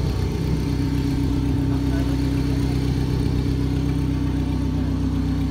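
A car engine idling steadily, with an even low drone.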